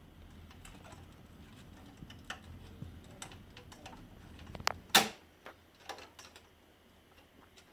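Scattered light plastic clicks and knocks as a fuser unit is pivoted and seated in an HP LaserJet Pro 400 M401 laser printer, with one sharper snap about five seconds in. A faint low hum underneath stops at that snap.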